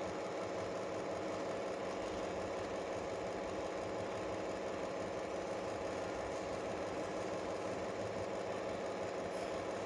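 A steady, unchanging mechanical hum, like a motor or fan running.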